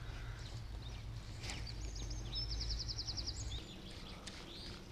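Small birds singing and chirping, with a fast trill of repeated high notes about two and a half seconds in, over a low rumble that stops about three and a half seconds in.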